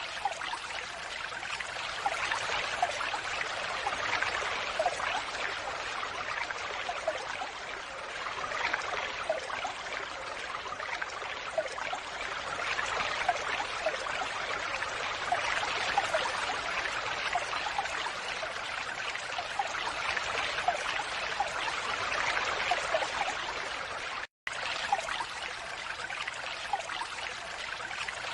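Falling water: a steady, even splashing pour with scattered small droplet plinks. The sound drops out completely for a split second about 24 seconds in.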